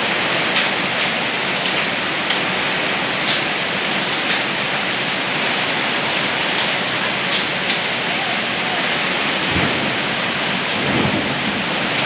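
Heavy downpour with hail: a steady hiss of rain, broken by scattered sharp clicks of hailstones striking hard surfaces.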